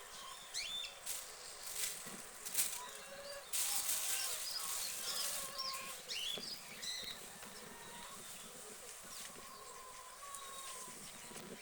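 Small birds chirping repeatedly over a steady outdoor background, with a loud rushing noise from about three and a half to six seconds in.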